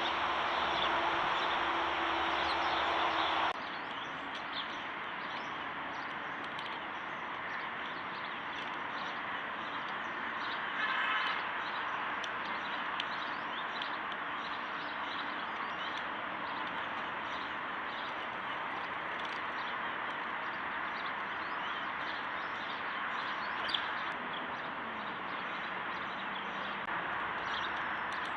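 A flock of small birds chirping and chattering at once, a dense continuous twitter with many short chirps on top; the sound drops abruptly a few seconds in.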